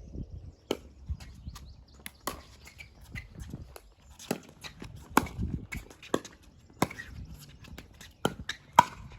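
Pickleball rally: paddles striking the hard plastic ball with sharp pops, the loudest about every one and a half to two seconds, with lighter clicks and footsteps on the court between hits.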